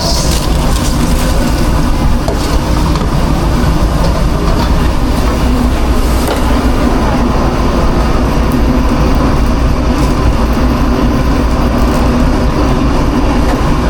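Steady, loud mechanical drone and hiss of the food truck's kitchen machinery running without a break, with a few faint steady tones in it.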